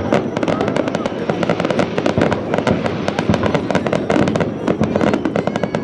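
Fireworks display: aerial shells bursting in a dense, continuous barrage, many sharp bangs and crackles a second with no pause.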